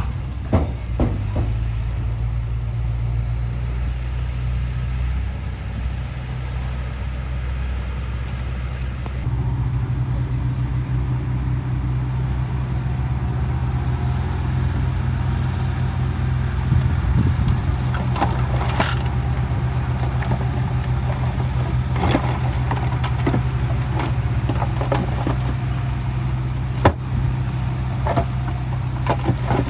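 Komatsu D31P crawler bulldozer's diesel engine running steadily, rising to a higher, heavier note about nine seconds in, with scattered clanks and knocks over it.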